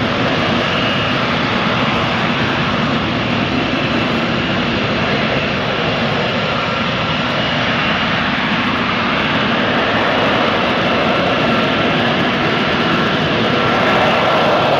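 Lockheed Martin F-35B stealth fighter's Pratt & Whitney F135 jet engine running with a steady, loud noise, with a faint high whine through it. It grows a little louder near the end.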